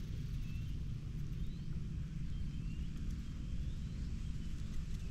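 Outdoor rice-paddy ambience: a steady low rumble with faint, short rising bird chirps about once a second.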